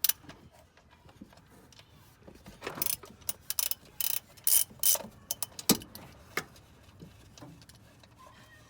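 Hand tools working on the engine: a ratchet clicking in short runs and metal clinks, mostly in the middle few seconds, with one sharp knock near six seconds in.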